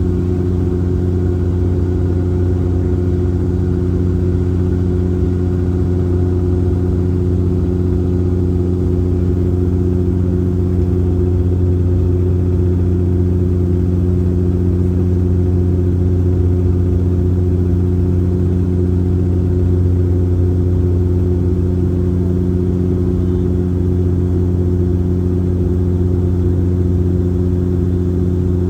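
Bombardier Dash 8 Q400's six-bladed propellers and Pratt & Whitney PW150A turboprop engines droning steadily, heard inside the passenger cabin: a loud low hum with several steady tones above it.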